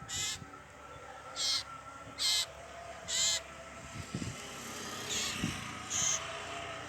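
A bird giving short, harsh calls, repeated about six times at uneven intervals.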